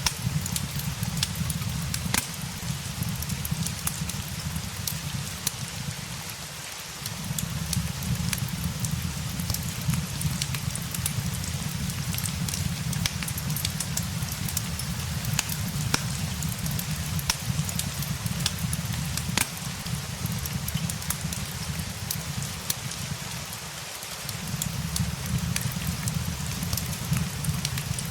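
Steady rain hiss mixed with the sharp crackles and pops of a wood fire, over a low rumble that briefly drops out twice.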